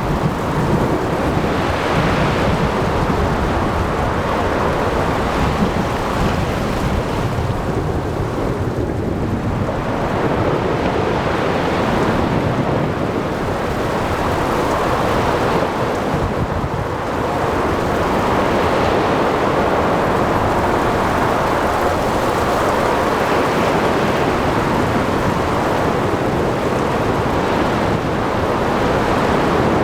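Stormy sea: waves surging and washing in every few seconds under steady rain and wind, with a low thunder rumble at the start.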